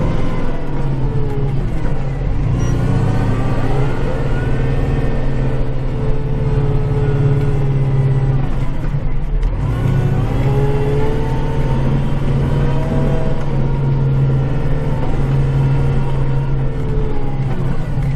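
Kubota tractor's diesel engine running under changing load, its pitch rising and falling. The engine note dips briefly twice, about two seconds in and about halfway, and then picks up again.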